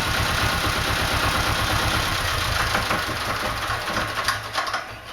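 Volvo Penta MD7A two-cylinder marine diesel running steadily at idle, then shut off: about three seconds in, its firing beats slow and spread out, and it coasts to a stop near the end.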